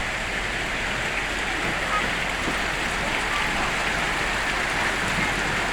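Heavy rain coming down pretty good, a steady even hiss of rainfall.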